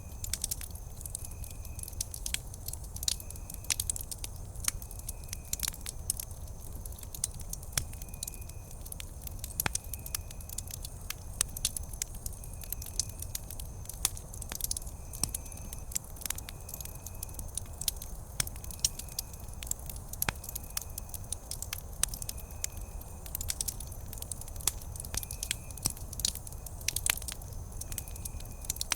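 Wood campfire crackling: irregular sharp pops and snaps over a low steady rumble of the burning fire. A short high chirp recurs every second or so behind it.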